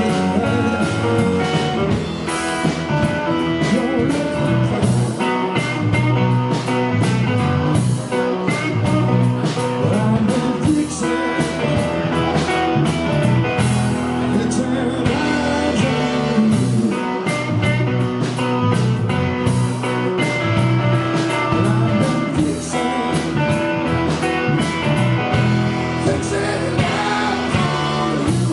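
A rock band playing live: electric guitar and drums, with a voice singing over them.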